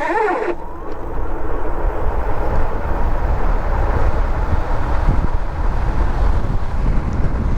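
Wind rushing and buffeting the microphone as a dual-hub-motor electric bike accelerates hard from a standstill to about 30 mph. A brief voice sounds right at the start.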